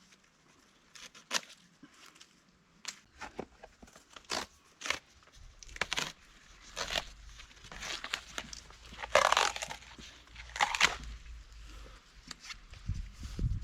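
Dry leaves and twigs crunching and crackling in a series of irregular sharp snaps, with a longer, louder rustling crunch about nine seconds in.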